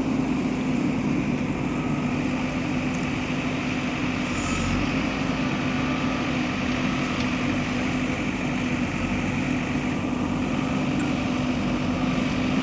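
Diesel engine of heavy machinery running steadily at constant speed, a continuous drone with no revving.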